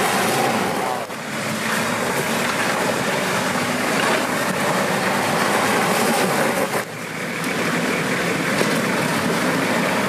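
Off-road 4x4 vehicle's engine running hard under load as a dense, steady noise that dips briefly twice, about a second in and near seven seconds in. The vehicle is struggling for traction and not getting anywhere.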